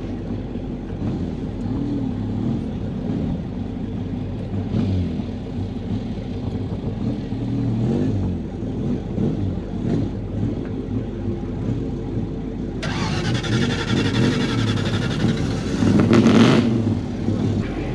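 Car engines running at low speed and rising and falling in pitch as cars move off. A loud rushing noise starts suddenly about thirteen seconds in and stops about three and a half seconds later, loudest just before it ends.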